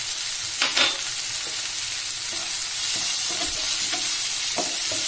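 Onion-tomato masala sizzling in hot oil in a pan, with turmeric and red chili powder just added. A spatula scrapes and taps against the pan as it is stirred, once about a second in and several times near the end.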